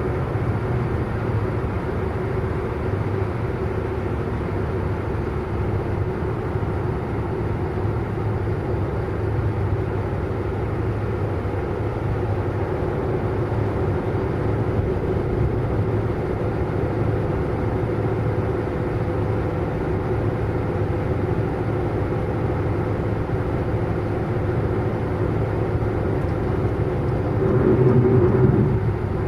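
Car driving at a steady speed: a continuous engine and road drone that holds an even pitch, with a brief swell about two seconds before the end.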